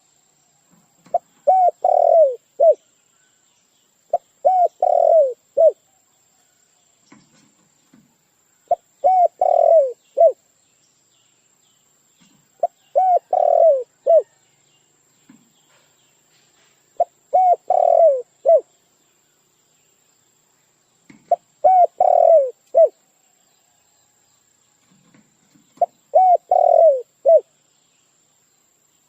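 A dove cooing: seven short phrases, one about every four seconds, each of three or four quick arched coos. It is a recorded call of the kind played to lure birds.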